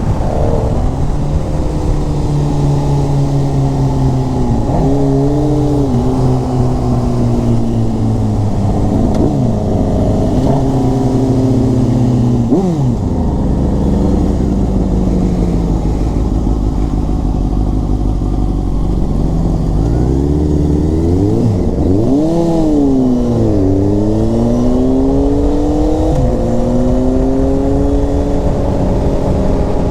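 Inline-four sportbike engines, a Honda CBR929RR and a Suzuki GSX-R750, on the move. The engine note rises and falls several times with throttle and gear changes, and drops sharply a little before the middle. It settles to a steady low idle for several seconds, then revs again about two-thirds of the way in and climbs slowly in pitch as the bikes pull away.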